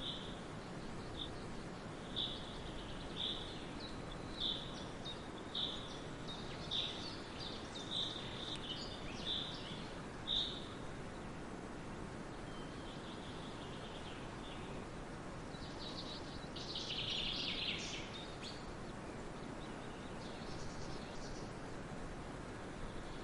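Forest birds calling over a steady background hiss. One bird repeats a short high note about once a second for the first ten seconds, and a brief burst of busier chirping comes about two-thirds of the way through.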